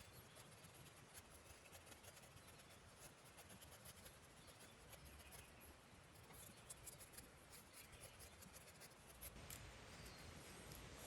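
Faint crackling of a wood campfire: many small, quick clicks and pops over a quiet hiss.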